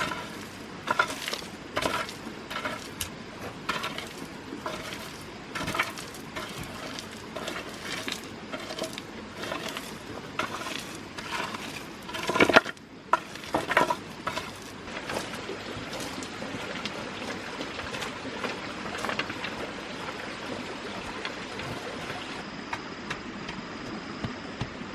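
A run of light knocks and clinks, several with a short ring, with a louder cluster about twelve seconds in; after about fifteen seconds the knocks thin out into a steady noisy hiss.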